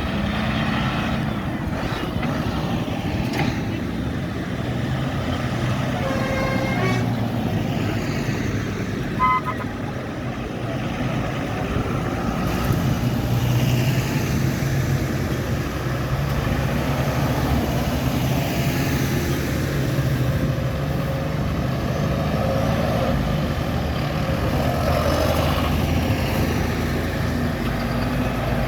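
Tractor and lorry engines running steadily as vehicles drive past, the engine note growing stronger about halfway through, with a short horn toot in the first half.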